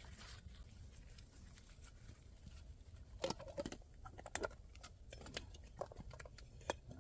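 Faint handling noises: a series of light clicks and rustles, more frequent in the second half.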